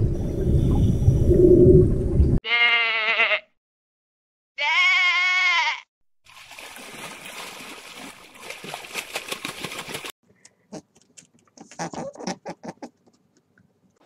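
A loud low rumbling noise, then two wavering bleats about two seconds apart, then a hiss with a run of clicks.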